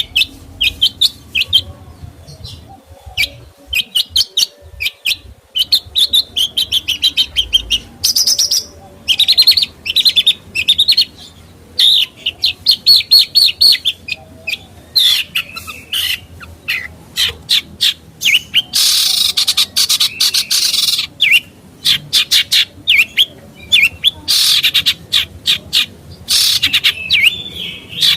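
A songbird singing a fast, varied stream of chirps and trills, broken by a few longer harsh, noisy bursts in the second half.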